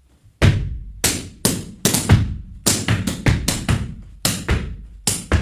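Gumboot dancing: hands slapping rubber boots, claps and foot stamps on a platform, struck in a fast rhythmic sequence of about seventeen sharp hits in quick clusters. The hits start after a brief gap about half a second in.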